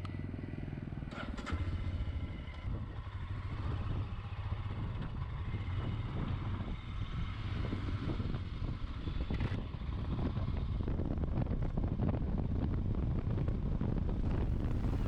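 Motorcycle engine running steadily while riding along, with wind noise.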